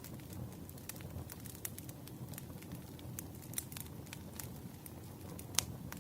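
Wood fire crackling: irregular sharp pops and snaps over a low steady rumble of the burning logs, with one louder pop near the end.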